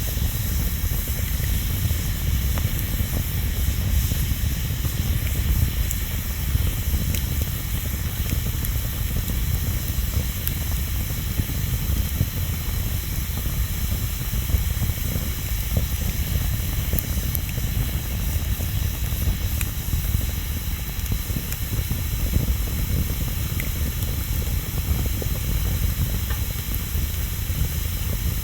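Wood bonfire burning: a steady hiss and low rumble with scattered faint crackles.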